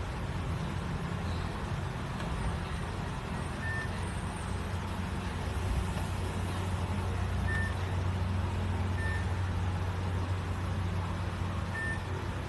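Microwave oven running: a steady low mains hum with a hiss, which cuts off suddenly at the end.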